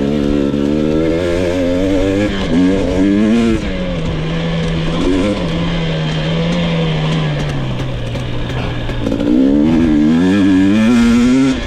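2022 GasGas EX 250 fuel-injected two-stroke dirt bike being ridden hard, its engine revving up and down with throttle and gear changes. Its note settles lower and steadier midway, then rises again into hard acceleration near the end.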